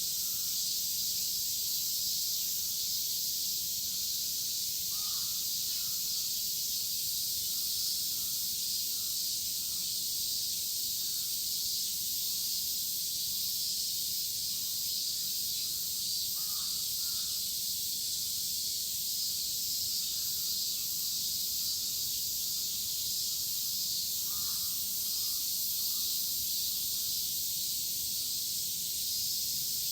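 A dense, steady chorus of cicadas, a high shrill hiss that never lets up. Crows caw faintly a few times: about five seconds in, again after about sixteen seconds, and near twenty-five seconds.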